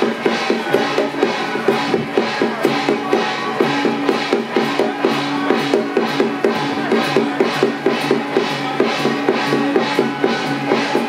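Festival percussion music: drums with crashing cymbal or gong strokes on a steady beat, under a held melody that steps from note to note.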